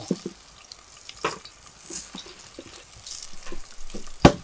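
Garlic and onion sizzling in a hot cast-iron Dutch oven, with light clicks and knocks as cut potatoes are dropped in. A sharp knock comes near the end.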